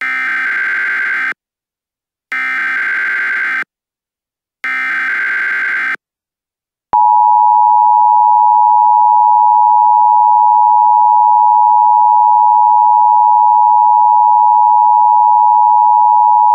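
Emergency Alert System tones: three short bursts of SAME header data, each just over a second long and about a second apart, then, about seven seconds in, the loud, steady two-tone attention signal. The tones mark the start of an Emergency Action Notification.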